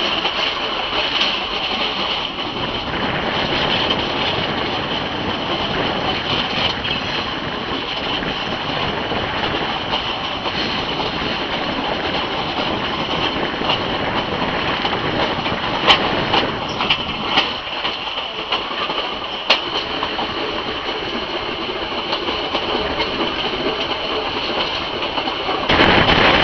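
Metre-gauge Burmese passenger train running along the track, heard from an open carriage window: steady running noise of wheels and carriage, with a few sharp clicks in the second half.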